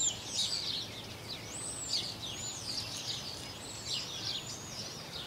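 Several small birds chirping continuously, many quick high calls overlapping.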